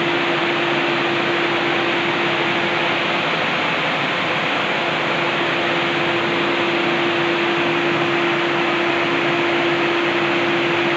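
A machine running steadily: an even hiss with a constant hum.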